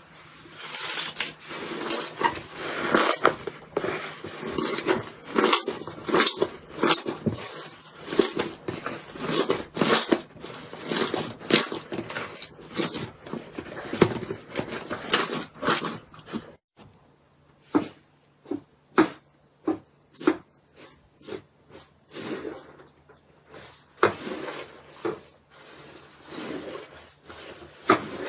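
Slime being squeezed and pressed by hand, making a dense run of wet clicks and pops. About halfway through it thins to separate pops about two a second, then grows denser again.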